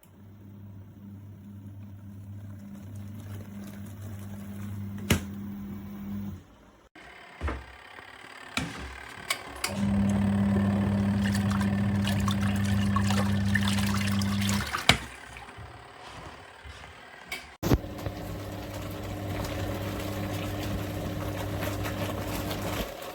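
Mini twin-tub washing machine's motor humming while water sloshes and splashes in the tub. The hum stops and starts a few times, loudest in the middle, with scattered clicks and splashes in between.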